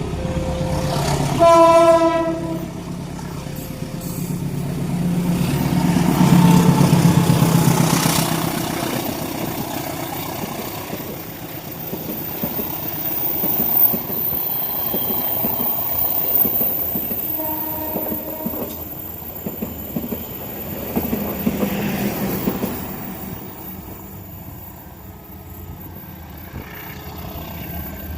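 A train horn sounds one short loud blast about a second and a half in. Then the train passes, a rumble that swells and fades twice, with wheels clattering over the rail joints.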